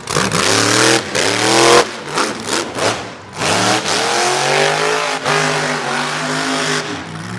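Monster truck engine revving hard in repeated surges, its pitch climbing and dropping, with one rev cut off abruptly about two seconds in.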